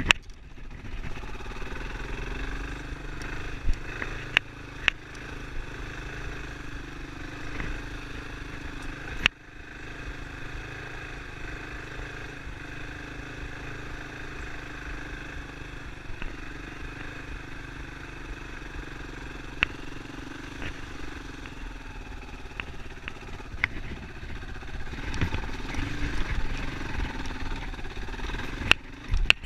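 Yamaha Serow enduro motorcycle's single-cylinder four-stroke engine running steadily under way, with a few sharp clicks and knocks.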